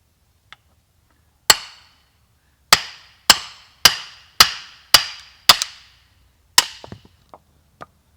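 A hammer striking about eight times, mostly at a steady pace of about two blows a second, each blow with a short ring, then a few lighter taps near the end.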